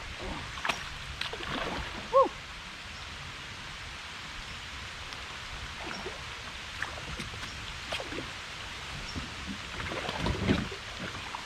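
Steady rain hissing on the lake, with scattered light knocks and splashes around the kayak. A short, loud squeak that drops in pitch comes about two seconds in.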